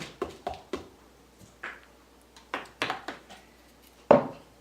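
Irregular light taps and knocks of containers and utensils being handled on a tabletop, about a dozen in all, with one louder knock near the end.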